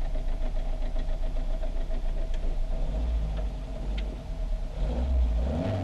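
Rally car engine idling on the start line, heard from inside the cabin, with the revs rising a little near the end as the throttle is blipped before the start.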